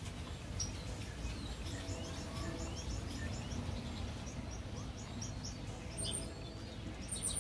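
Small birds chirping in short, quickly repeated high notes over a low, steady background rumble.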